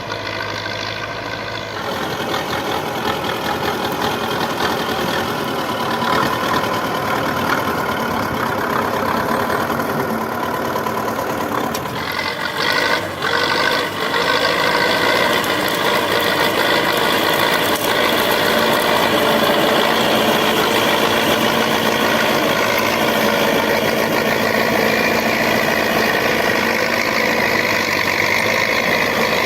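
Diesel engine of a T-74 crawler tractor running steadily, with two brief dips in loudness near the middle.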